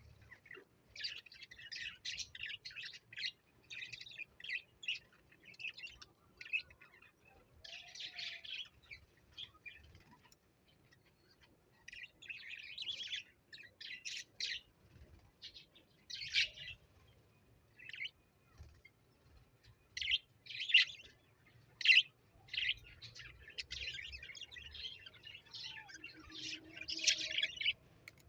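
Pet parrot chirping and chattering in short bursts of rapid high-pitched notes, with a brief lull a little before the middle.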